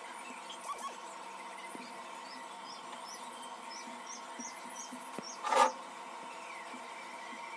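Steady background hum, with a run of faint, short high chirps in the middle and one brief loud, sharp sound about five and a half seconds in.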